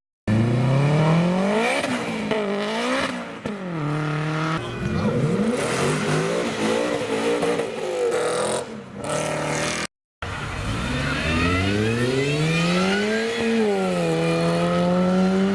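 Sports car engines accelerating hard, the revs climbing steeply and dropping at each quick gear change. The sound breaks off briefly about ten seconds in, then revs climb in one long pull, drop, and settle into a steady high drone near the end.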